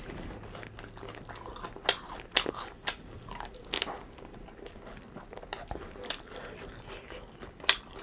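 Close-miked chewing and biting of food, with irregular sharp crunches and mouth clicks about every half second to second.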